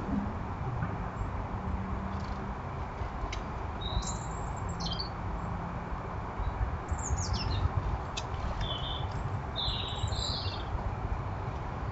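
Small garden birds chirping: a handful of short, high calls from about four seconds in, over a steady low rumble.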